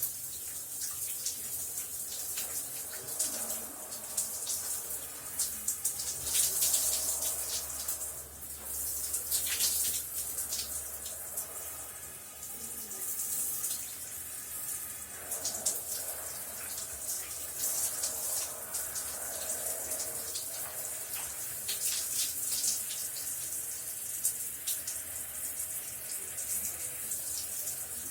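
Shower running steadily: a continuous hiss of spraying water with irregular spatters as it hits the surfaces below.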